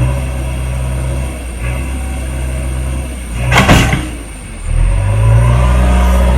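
Diesel engine of a JCB 3DX backhoe loader running steadily while working soil, with a brief loud rush of noise about three and a half seconds in. Shortly after, the engine revs up and holds the higher speed.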